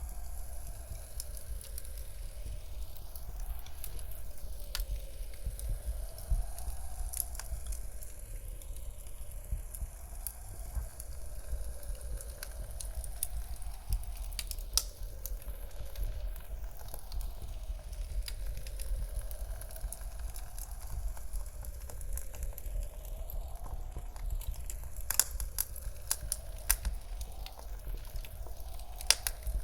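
Wood fire crackling in a fireplace, with many small sharp pops and a few louder ones near the end, over a low steady rumble of blizzard wind. The sound sweeps back and forth evenly every few seconds, the 8D panning effect.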